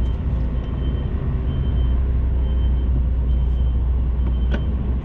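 Heavy goods lorry's diesel engine running steadily while reversing, with its reversing alarm beeping a high tone about once a second.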